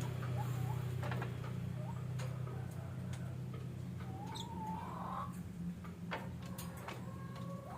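Pet lovebirds: scattered sharp clicks and ticks, with a short wavering call about halfway through and a held, level call near the end, over a low steady hum.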